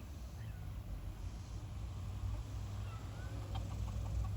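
A low steady rumble, with a few faint, short, high chirps scattered through it, most of them a little past halfway.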